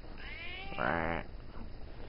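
Bombay cat giving one attention-seeking meow about a second long, starting thin and high and growing fuller and louder in its second half.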